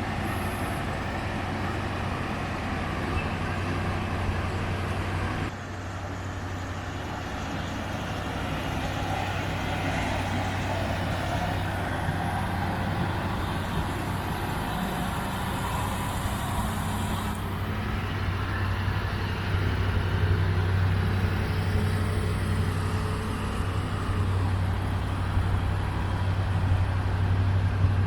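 1955 Ford Thunderbird's Y-block V8 running steadily at idle. The sound drops abruptly about five seconds in and grows a little louder toward the end.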